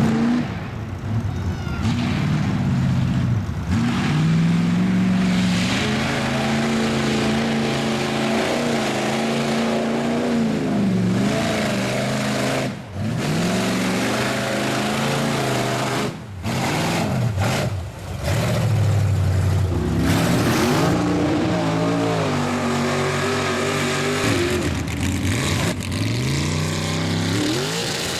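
Mud truck engine revving hard, its pitch climbing and falling again and again, with a few brief drop-offs in the middle.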